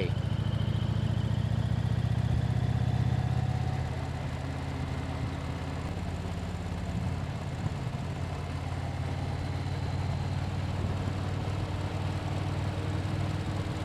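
Motorcycle engine running steadily at road speed, heard from the rider's seat, with the rush of riding behind it. It is louder for about the first four seconds, then settles a little lower.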